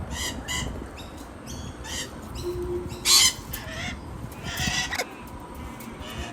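Birds calling in a string of short, harsh squawks, about eight of them, the loudest a little past three seconds in.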